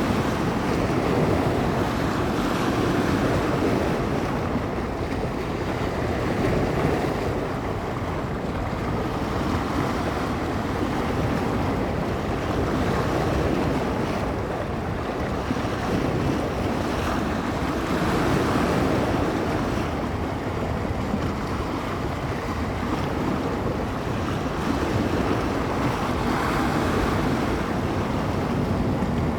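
Bay waves washing onto the shore, the wash swelling and easing every few seconds, with wind rumbling on the microphone.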